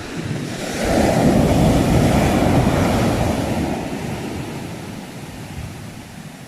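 Sea waves breaking on the shore: one wave crashes about a second in and its wash slowly fades away, with wind on the microphone.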